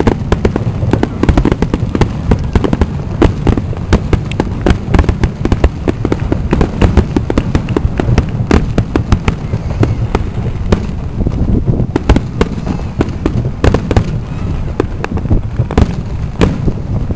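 Fireworks finale: a rapid, unbroken barrage of sharp bangs and crackles, many per second, over a continuous low rumble.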